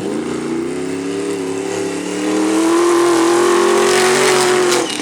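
Monster truck engine revving up, its pitch climbing steadily and getting louder about halfway through, then dropping off abruptly near the end.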